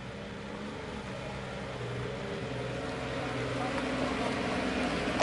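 Toyota Land Cruiser engine running with a steady low hum, growing gradually louder.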